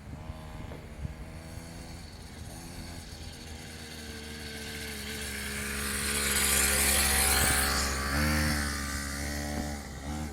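Mini dirt bike engine running steadily, growing louder to a peak about six to eight seconds in, then easing off a little. The engine note dips and rises in pitch near the end as the throttle changes.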